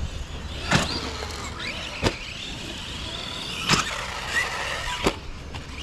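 Electric RC monster trucks running, their brushless motors whining and changing pitch over a steady hiss. Four sharp knocks are spread through the run.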